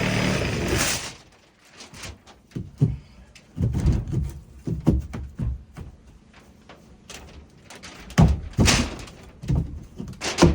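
A steady motor runs and cuts off about a second in. After it come scattered wooden knocks and thumps of framing work, with two louder thuds about eight seconds in.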